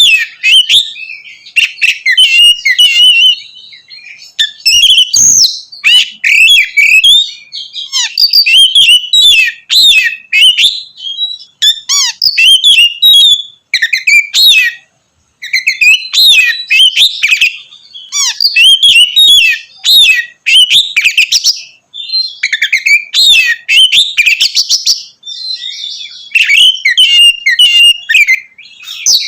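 Oriental magpie-robin (kacer) singing loudly in ngeplong style: rapid runs of varied, sharp whistled and chattering phrases with short pauses between them, and a brief break about halfway through.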